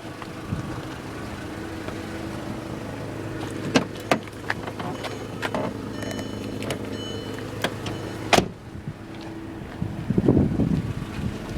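2007 Volkswagen City Golf's 2.0-litre four-cylinder idling steadily with a leaking exhaust. Several sharp clicks and knocks sound over it, the loudest about eight seconds in.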